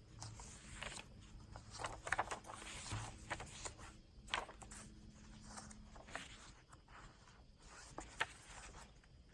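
Paper pages and cards of a handmade journal being handled, with soft, irregular rustles and light taps.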